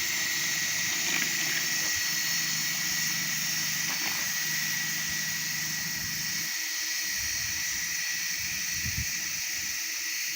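A motor driving a 3D-printed propeller, running steadily under power with a constant high whine over a rushing noise. The lower rumble thins out about six and a half seconds in.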